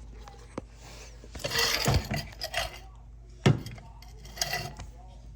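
Metal clinks and clattering in a few short bursts, with one sharp knock about three and a half seconds in, as things are handled and moved about under the car.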